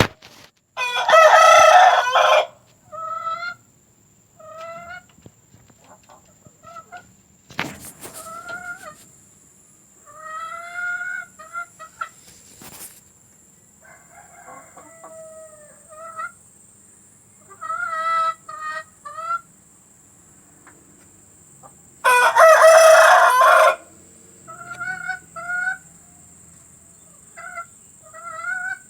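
Domestic chickens: a rooster crows twice, about a second in and again past twenty seconds, and these are the loudest sounds. Between and after the crows, hens give many short, rising clucks.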